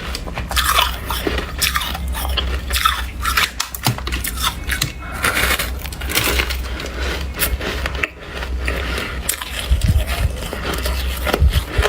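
Close-up biting and chewing of snowflake shaved ice: a continuous, irregular run of small crunches and scrapes. The ice has softened and is no longer crisp. A steady low hum runs underneath.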